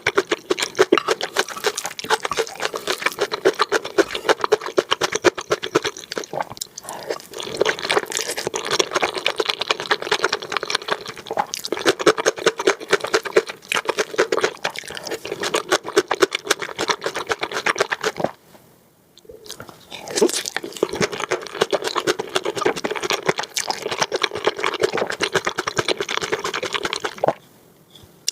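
Close-miked eating of saucy noodles: wet slurping and chewing with dense, rapid mouth clicks and smacks, broken by a short pause about two-thirds of the way through and another near the end.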